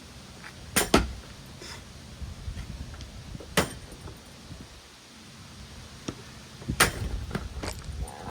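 Objects thrown into a spinning Hunter Coastal Breeze Plus ceiling fan strike its blades with sharp hits: three loud ones, about a second, three and a half seconds and seven seconds in, with smaller clicks between.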